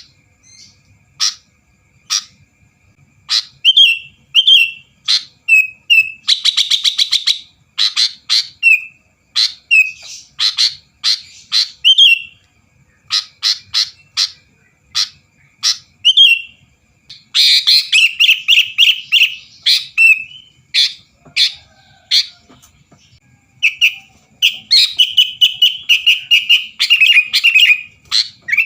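Sooty-headed bulbul (kutilang) singing energetically: a steady run of short, sharp chirps and whistled notes. Rapid rattling trills come about seven seconds in, again from about seventeen to twenty seconds, and in a longer stretch near the end.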